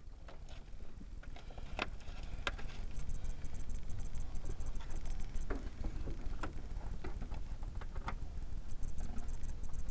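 Small metal bolts and a wrench being handled while bolts are fitted by hand: scattered light clicks and taps, with a few sharper clinks.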